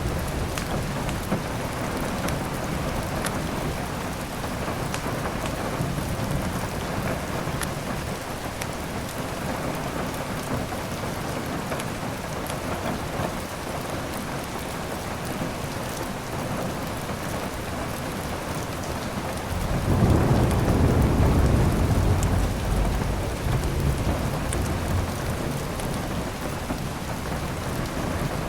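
Steady heavy rain with low rolls of thunder, the loudest about two-thirds of the way in, and scattered sharp crackles from a wood fire.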